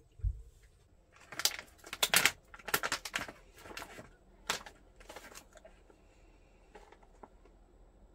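A run of short scrapes, rustles and clicks from things being handled, dense for a few seconds and then only a few faint ticks.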